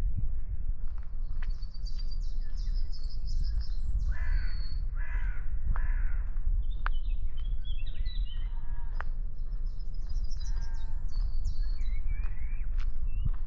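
Birds singing outdoors, with repeated high trills that come and go, and harsher, lower calls about four to nine seconds in, over a steady low rumble.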